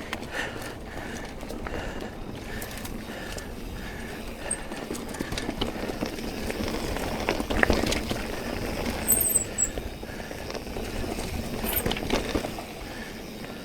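Mountain bike rolling along a dirt singletrack trail: tyre noise over the ground, with the bike's chain and frame rattling and knocking over bumps, and a louder clatter about eight seconds in.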